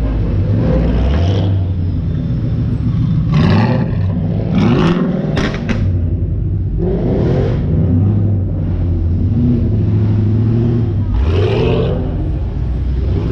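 Sports car engines running in traffic and being revved, a steady low drone with swells, and several short sharp cracks a few seconds in.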